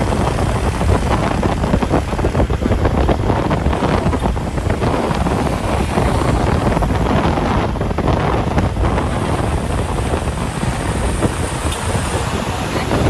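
Road traffic noise: vehicles running past at speed, with wind buffeting the microphone.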